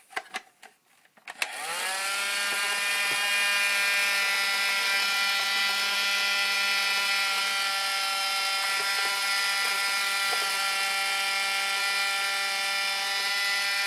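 Vacuum cleaner switched on: a few clicks, then about a second and a half in the motor spins up, rising in pitch, and settles into a steady whining hum that keeps running.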